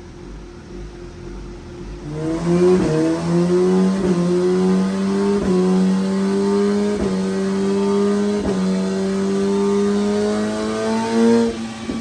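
Inline-four superbike engine doing a full-throttle dyno pull. It idles, is opened up about two seconds in, and climbs steadily in pitch for about nine seconds, with a brief catch roughly every second and a half. Near the end the throttle is shut and it drops back to idle.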